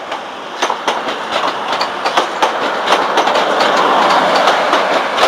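Class 185 diesel multiple unit pulling out of the platform, its wheels clicking rapidly over rail joints and pointwork while the running noise grows louder over the first few seconds.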